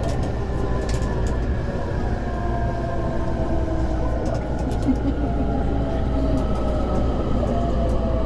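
Inside an electric commuter train slowing into a station: a steady low rumble of wheels and running gear, with the traction motors' whine falling gently in pitch as the train brakes.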